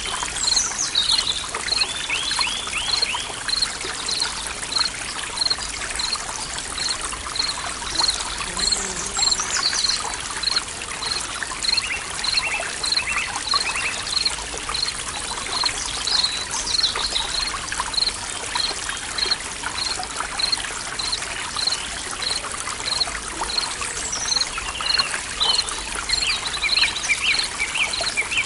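Forest stream trickling and splashing steadily, with birds singing in short phrases. A high chirp repeats evenly about one and a half times a second throughout.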